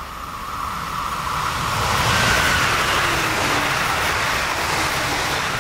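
ICE high-speed electric train passing at speed: a rush of air and wheel noise that swells over about two seconds, then holds as the coaches go by.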